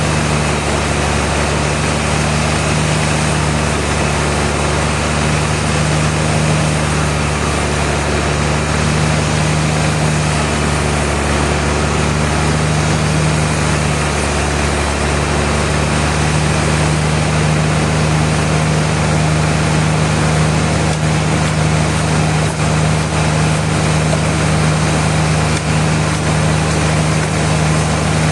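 Sawmill machinery running with a steady low hum and a noisy drone that hardly changes.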